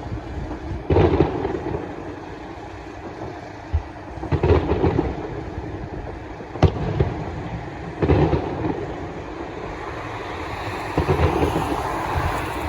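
Fireworks going off on Bonfire Night: four booming bangs spaced a few seconds apart and two sharp single cracks, over a steady background rumble of traffic.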